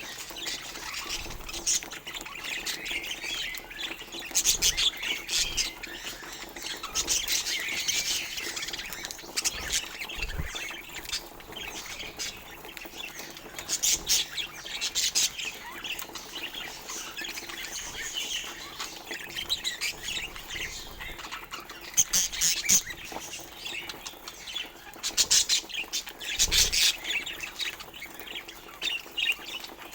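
Budgerigars chattering and chirping continuously, with louder bursts of sharper calls every few seconds.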